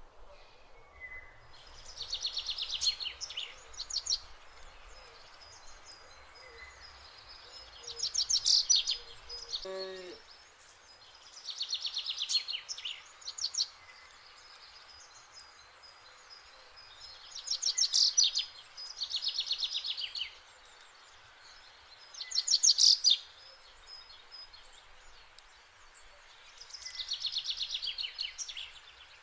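A songbird singing a fast, high trilled phrase again and again, about every four to five seconds, over faint steady outdoor background noise.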